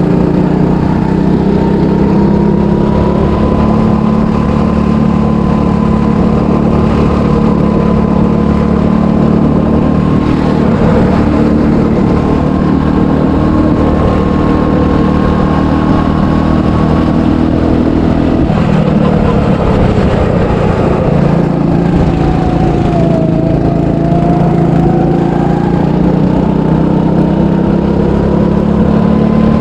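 300cc go-kart engine running hard through a lap, its note holding high and steady; about two thirds of the way in the revs fall away, then climb back up near the end.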